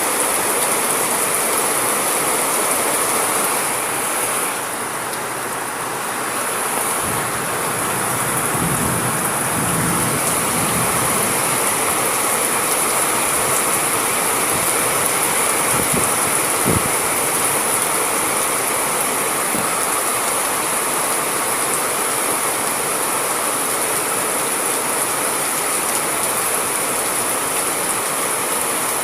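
Steady heavy rainfall, a constant even hiss of falling rain. There is a brief low rumble a third of the way in and a couple of soft low knocks about halfway through.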